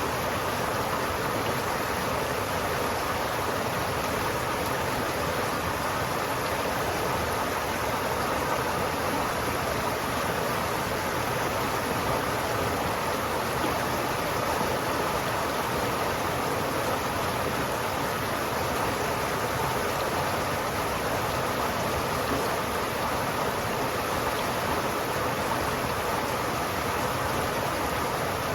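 River water flowing steadily, an even, unchanging rush.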